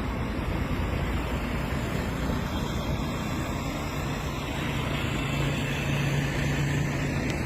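Steady low rumbling noise, with a low steady hum joining about four seconds in.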